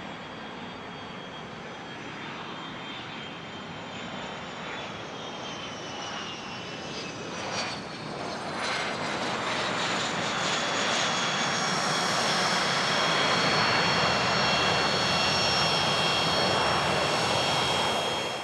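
Business jet's turbofan engines passing close: a high whine that slides down in pitch, then a roar that builds to its loudest over the last several seconds with the whine held steady.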